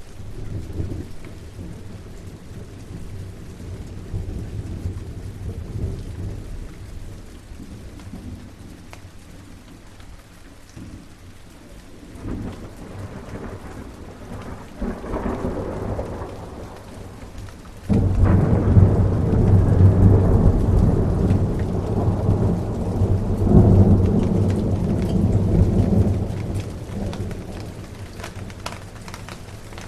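Steady rain with rolling thunder. A low rumble swells near the middle, then a sudden loud thunderclap about two-thirds of the way in rumbles on for several seconds before fading.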